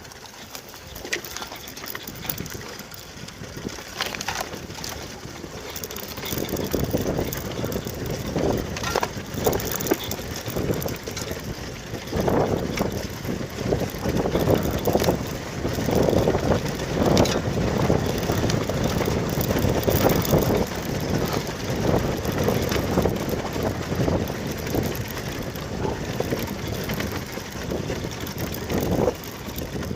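Riding a Kovi 300 Advance motorcycle: wind buffeting the microphone in uneven gusts over the running engine and road noise. It grows louder about six seconds in.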